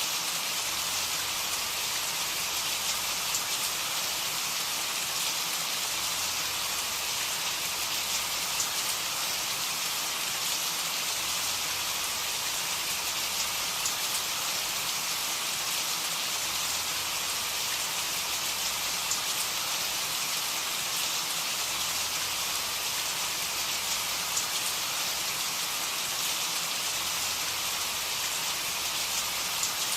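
Rain falling steadily: an even hiss with scattered small drop ticks.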